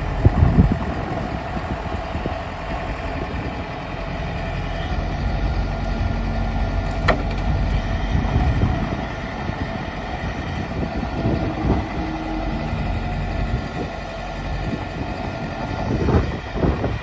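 Case 450 skid steer's diesel engine running steadily at idle, with a few knocks just after the start and again near the end, and one sharp click about seven seconds in.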